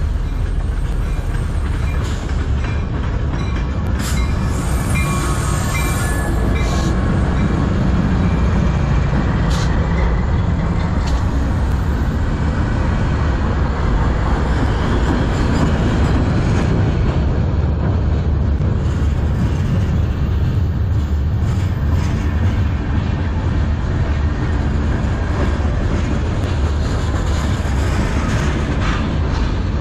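CN diesel-electric freight locomotives pass close by on a manifest train, engines running over a steady heavy rumble of wheels on rail. The freight cars then roll past, with scattered sharp clicks and a faint high wheel squeal.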